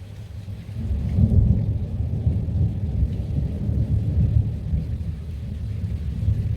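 Rolling thunder that builds about a second in and rumbles on, deep and continuous.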